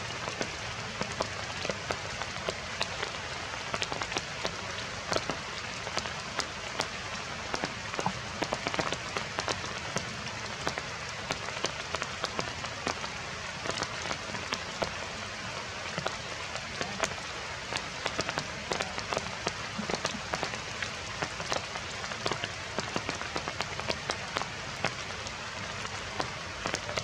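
Heavy rain falling steadily, with many sharp hits of individual drops.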